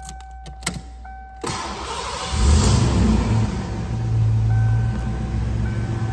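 1987 Ford Mustang LX engine cold-started: a sharp click, the starter cranks for about a second, then the engine catches with a loud rise and settles into a steady idle.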